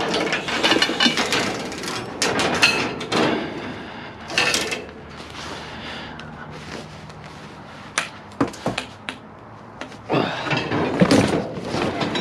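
Scrap and debris being moved around in a dumpster: a run of clattering knocks and bangs, a quieter stretch in the middle, then more clatter near the end.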